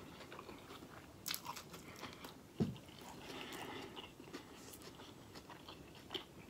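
Close-miked chewing of a mouthful of corned beef sandwich, with small wet mouth clicks, and a single dull thump about two and a half seconds in.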